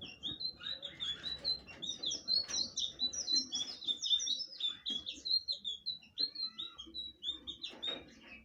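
Blue flycatcher singing a long, fast twittering song of high notes, which stops shortly before the end.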